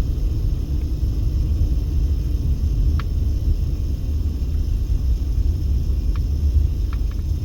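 A car being driven, heard from inside: a steady low rumble of road and engine noise, with a couple of faint clicks.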